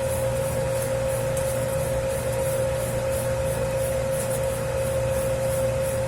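Dough kneading machine mixing a 10 kg batch of pizza dough: a steady motor hum with a clear constant tone, and a faint swish that repeats evenly a few times a second as the dough turns.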